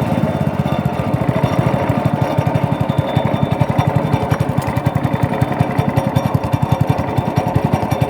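Small boat engine running steadily, with a fast, even chugging.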